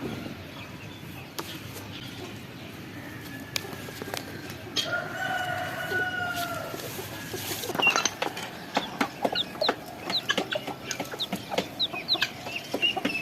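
A rooster crows once, a single long call about five seconds in, over background clucking. It is followed by a run of quick high chirps from other birds.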